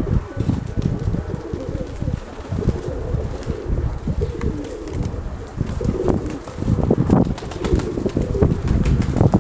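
Nikolaev pigeons cooing, with gusty wind rumbling on the microphone.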